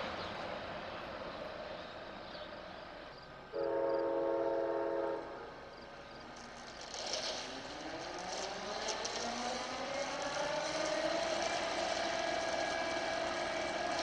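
Train noise dies away, then about three and a half seconds in a locomotive horn sounds one short chord of several tones for about a second and a half. From about seven seconds a rising whine with several tones climbs steadily in pitch as train noise builds again.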